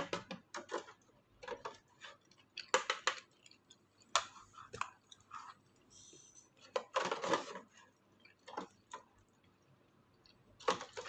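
Eating sounds from a self-heating hot pot: short clusters of chewing and clicking every second or two.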